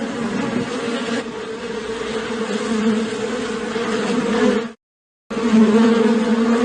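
A flying insect buzzing with a steady, droning wingbeat tone. The buzz cuts out completely for about half a second a little after halfway, then resumes.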